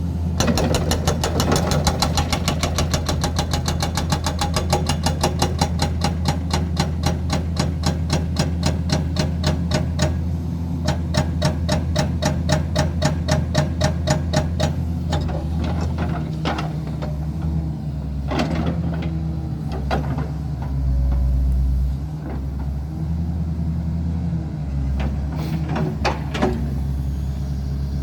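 A 2007 New Holland Kobelco E215B tracked excavator's diesel engine running, with a fast, even clatter of about five strokes a second through the first half. It then settles to steadier running with a few separate knocks.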